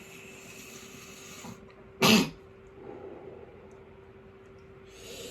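A person coughing once, short and loud, about two seconds in, after a long breathy exhale of a dab hit. Another long breath starts near the end. A steady faint hum runs underneath.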